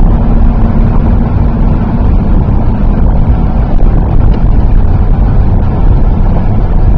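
Steady, loud road and engine noise inside a moving car's cabin, with a low hum that fades out about two seconds in.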